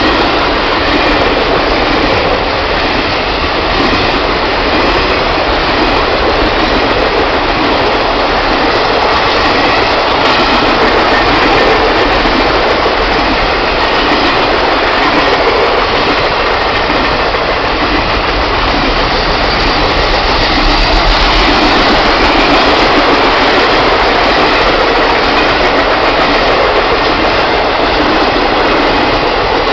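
Triple Crown RoadRailer trailers rolling past on their rail bogies: a loud, steady rolling noise of steel wheels on rail.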